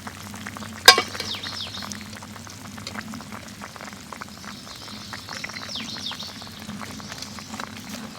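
Pork spare ribs sizzling in a pan of hot fat, crackling and popping steadily, with one sharp click about a second in.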